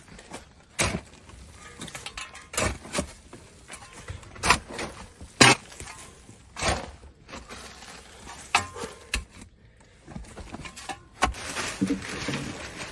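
Irregular sharp knocks and scrapes of digging into a packed earth floor, about nine separate strikes spread unevenly through the stretch.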